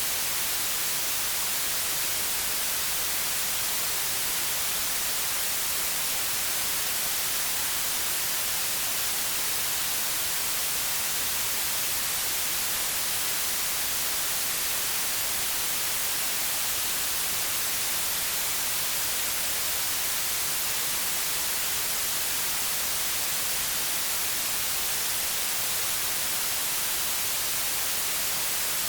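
Continuous white noise: an even, steady hiss that is brightest in the high frequencies, with no change in level.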